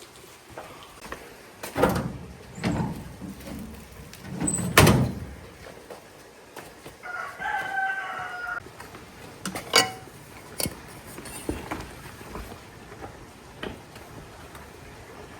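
A rooster crows once, about seven seconds in, among several sharp knocks and thuds, the loudest about five seconds in.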